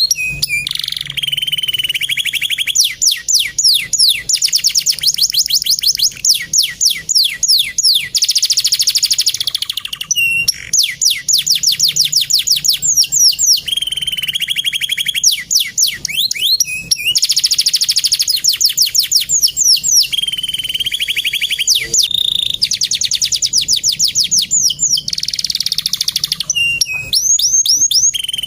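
Male canary singing a long, continuous song of rapid trills and fast runs of repeated sweeping notes, pausing briefly a few times.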